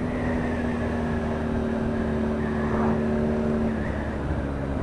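BMW R nineT Scrambler's 1170 cc boxer twin pulling steadily at road speed under wind rush; its held note fades away near the end.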